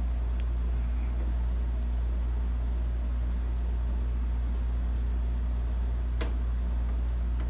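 Steady low machine hum with two short sharp clicks, one about half a second in and a louder one about six seconds in.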